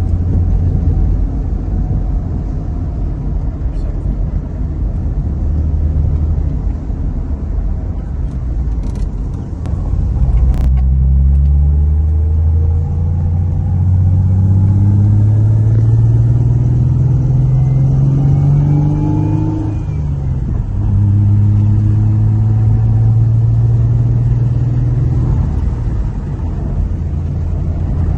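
2005 Ford Mustang with a freshly installed remanufactured engine, running on a test drive. It idles for about ten seconds, then accelerates with the engine note rising steadily for several seconds, dips at a gear change, and rises again before easing off.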